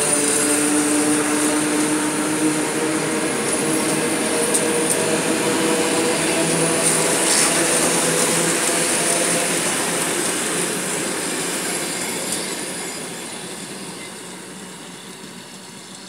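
Electric commuter train running past close by, its wheels on the rails, with a few steady whining tones over the din. From about eleven seconds in it fades steadily as the train moves off into the distance.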